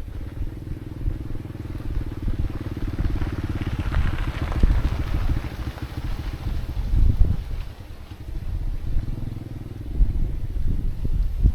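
An engine running, with a steady low rumble and a fast pulse that swells and fades about four to five seconds in, like a vehicle passing.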